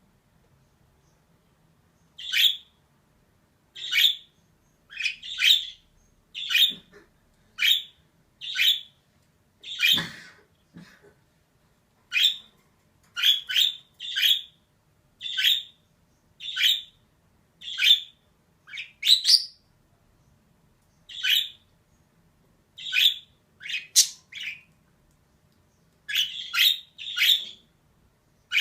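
Female budgerigar calling in short, high chirps, one or two at a time about every second, with brief pauses between runs. One harsher, louder call comes about ten seconds in.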